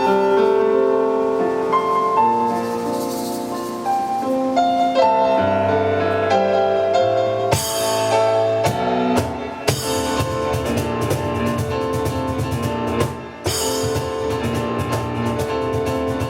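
Live instrumental of piano and drums: the piano plays a melody alone, with low bass notes joining partway through. The drums come in with a crash about seven seconds in and then drive a fast, steady beat under the piano.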